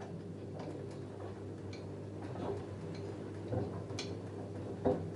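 LG F10A8HDS5 direct-drive front-loading washing machine tumbling a load of jeans in the wash: a steady motor hum with irregular clicks and knocks from the load turning in the drum, the loudest knock near the end.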